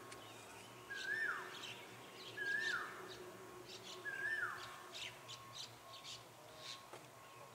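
Birds calling: one bird repeats a loud call three times about a second and a half apart, each a short rising note that swoops down, while other birds give quick high chirps around it.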